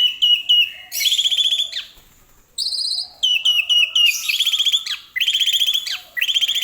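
Javan pied myna singing. Each phrase is a run of short falling whistles followed by longer buzzy, rattling notes. The phrase repeats about three times, with a short pause after the first.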